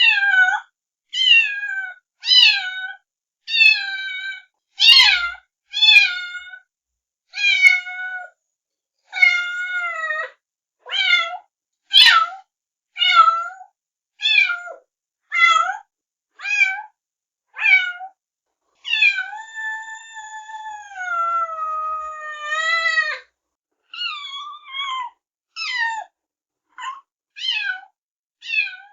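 Kitten meowing over and over in short, high meows about one a second. About two-thirds of the way through comes one long drawn-out meow that drops in pitch before it ends.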